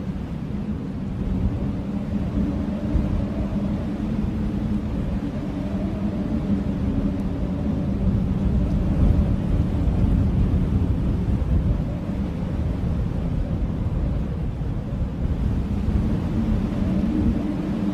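Blizzard wind howling: a steady low rush of wind with a faint, slowly wavering howl, swelling a little around the middle.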